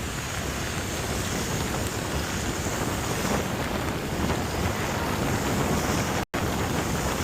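Steady rushing wind and rain noise on the microphone while moving through traffic in a rainstorm. The sound cuts out for an instant about six seconds in.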